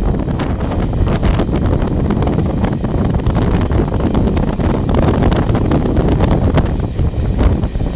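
Express train passing through a station at speed without stopping: a loud, steady rush of wind buffeting the microphone, with rapid clicks and clatter from the wheels.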